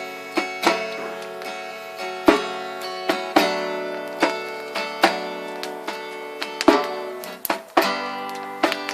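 Acoustic guitar playing alone, without singing: plucked notes and chords ringing out one after another in an unhurried rhythm.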